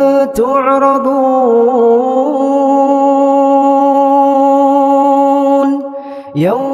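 A male Quran reciter in melodic tajweed holding one long drawn-out note, ornamented with small turns in pitch at first and then held steady; near the end it breaks off briefly and a new phrase starts, rising in pitch.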